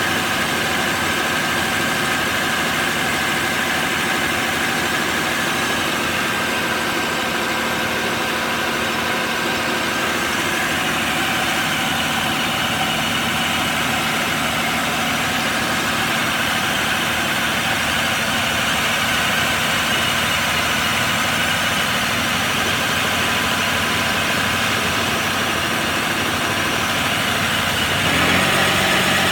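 1995 Nissan Pathfinder's 3.0-litre V6 engine idling steadily, then starting to rev up, rising in pitch and getting louder, about a second before the end.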